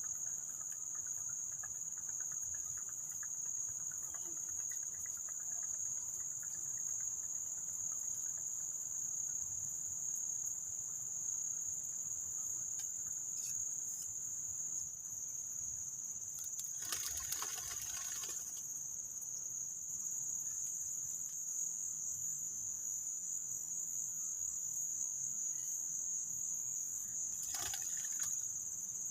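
Steady high-pitched drone of insects. Two brief noisy sounds break through it, one a little past halfway and a shorter one near the end.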